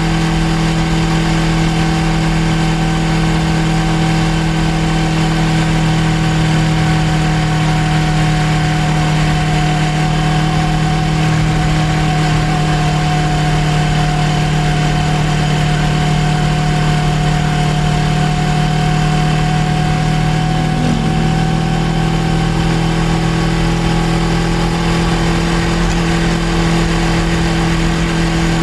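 Suzuki GSX250R's parallel-twin engine running at a steady, even speed while cruising, heard from on the bike. The pitch hardly changes, with only a slight shift a little past two-thirds of the way through.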